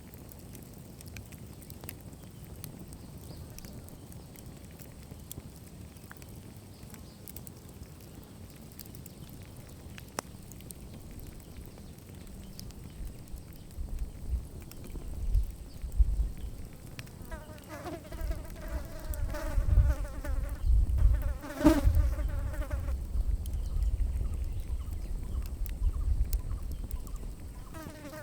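A flying insect buzzing close to the microphone: a wavering hum that comes in about two-thirds of the way through, fades after several seconds and comes back briefly at the end. Under it are low rumbling and a few faint crackles from a campfire.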